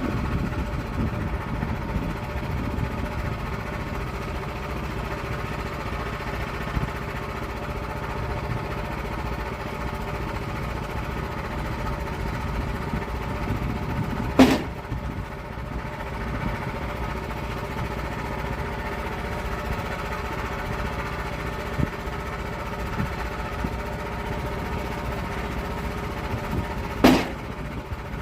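Engine of a log-milling saw running steadily through an oak log, with two sharp knocks, one about halfway through and one near the end.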